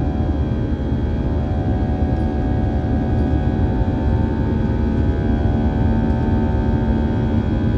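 Airbus A320-232's IAE V2500 turbofan engines running at steady thrust, heard inside the cabin as a loud, even rumble with several steady tones over it.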